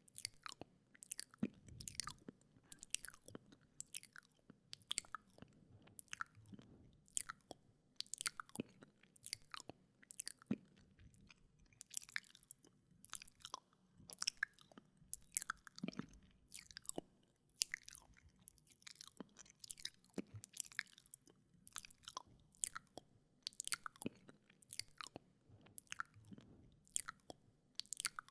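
Wet mouth sounds close to the microphone: irregular, sharp wet clicks and smacks of tongue and lips, a few a second.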